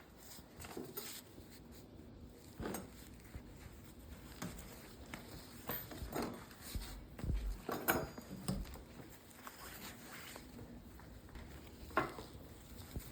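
Scattered light clicks, taps and rustles of hands working at a bench, fitting ties around a book's boards, with a duller thump about seven seconds in and a sharper click near the end.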